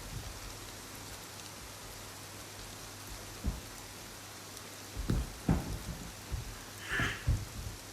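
Steady rain. From about halfway through, a few short, dull low thumps, and one brief higher-pitched sound about seven seconds in.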